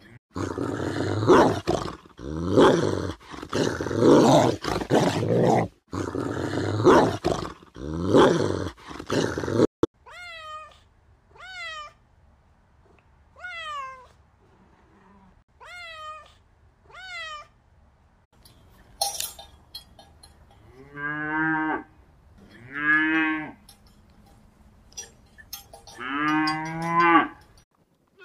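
A cow mooing loudly and repeatedly, then a cat meowing over and over, each meow short and falling in pitch. Near the end come three lower, drawn-out animal calls.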